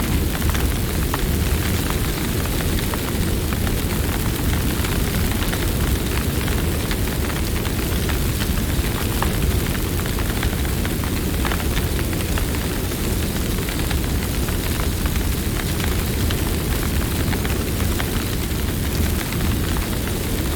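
Campfire burning: a steady low rumble of flames with many small crackles and pops scattered throughout.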